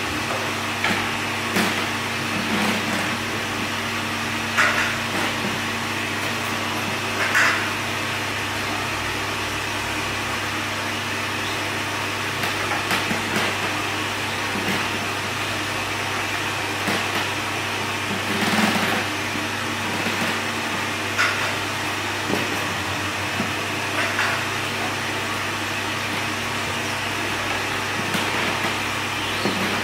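Steady mechanical hum of workshop machinery, with light knocks and clacks every few seconds.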